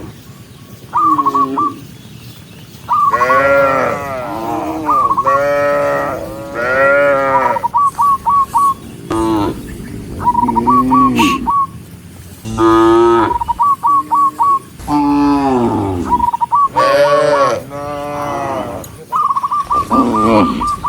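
A herd of cows mooing, one long call after another, about ten calls with short gaps between, some lower and some higher-pitched. Between the moos come quick runs of short high whistled notes.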